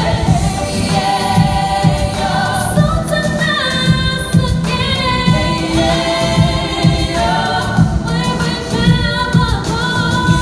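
Song with layered, choir-like singing voices over a steady beat.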